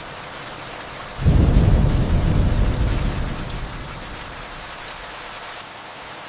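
Steady rain hiss with a distant thunder rumble that breaks in suddenly about a second in and fades away over the next three seconds.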